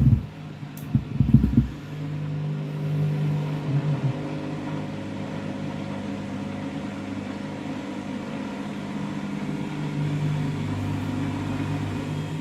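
Washing machine drum motor running steadily with a hum, after a few knocks in the first two seconds. The drum is turning the load to distribute it before spinning, and the load is unbalanced.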